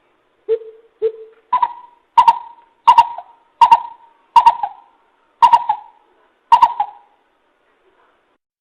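Greater coucal calls used as a trapping lure: a series of hollow hooting notes. Two lower hoots are followed by about seven higher ones, roughly one every 0.7 seconds.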